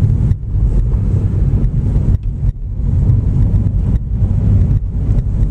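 Low, uneven rumble of a car driving on a snowy road, heard from inside the car, with wind buffeting mixed in.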